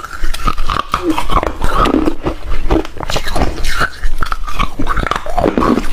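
Close-miked crunching and chewing of hard refrozen ice: a steady run of sharp cracks as the cubes break between the teeth, with wet mouth sounds in between.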